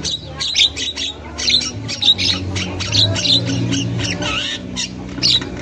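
Javan myna (jalak kebo) chattering: a fast string of short, harsh squawking calls, several a second, without a break.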